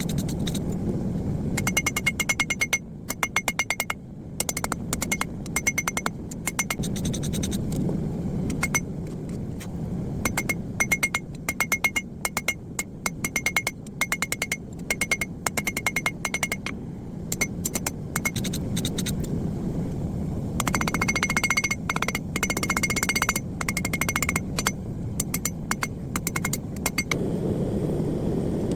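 Hammer blows on hot steel over an anvil in quick steady runs, each strike ringing with a bright metallic tone, with a few short pauses between runs. A steady low rumble runs underneath.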